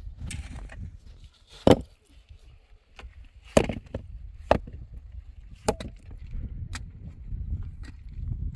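About five sharp knocks at irregular intervals, the loudest about two seconds in, over a low steady rumble.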